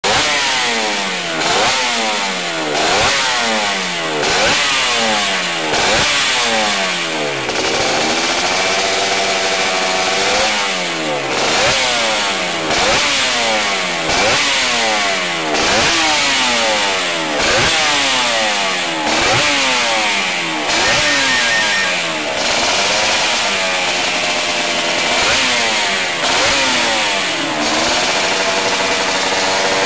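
Suzuki RG Gamma two-stroke square-four Grand Prix racing engine being blipped on the throttle over and over, revs rising and falling about every second and a half. Twice it is held higher for a couple of seconds, about a third of the way in and again near three-quarters.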